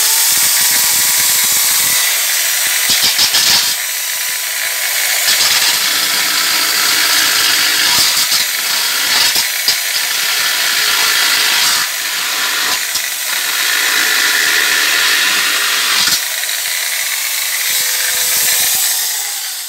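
A hand-held rotary power tool spinning an abrasive 'lollipop' grinding tool against the cut edge of a hole in a steel sheet-metal shell, grinding it wider. A loud, steady high hiss over a faint motor whine, with a few short dips as the tool is eased off, tapering away near the end.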